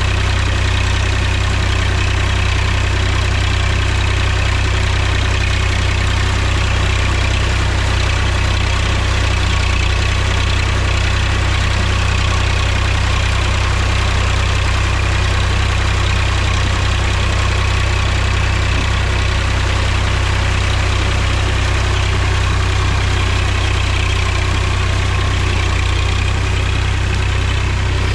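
Mahindra tractor's diesel engine running steadily with a deep, even drone.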